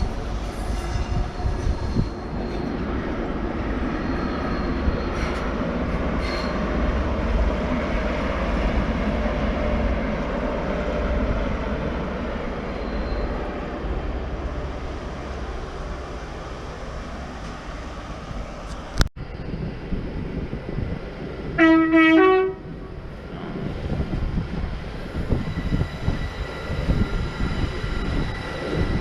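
Train running with a steady low rumble. Later a short two-note train horn sounds, the loudest thing heard, and then rail and wheel noise of a train resumes.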